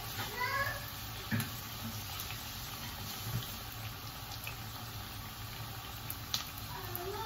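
Breaded chicken schnitzels sizzling steadily in hot oil in a frying pan, with a few faint pops.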